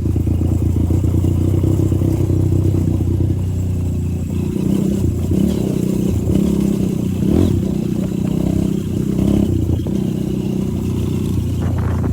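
Honda motorcycle engine running while riding, steady at first, then its note wavering up and down from about four seconds in as the throttle changes.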